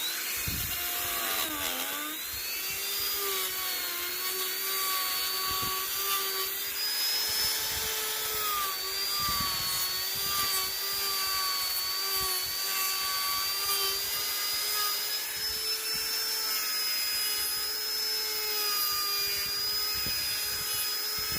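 High-speed electric carving tool running, spinning up quickly at the start into a steady whine; its pitch sags about two seconds in and wavers slightly as it is worked against the wood.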